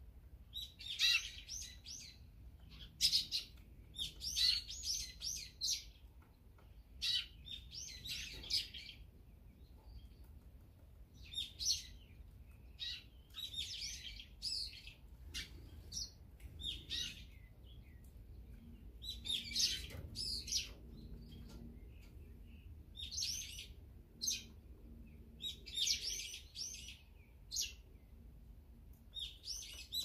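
Small songbirds chirping: short runs of quick, high chirps repeated every second or two, with a few brief pauses.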